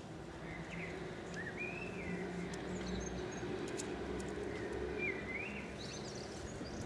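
Birds chirping, short rising and falling calls repeated several times over a faint steady low hum, with a few light clicks.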